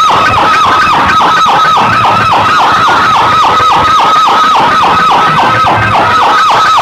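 Loud electronic DJ siren effect from a competition sound track: a fast, even string of falling chirps, about four to five a second.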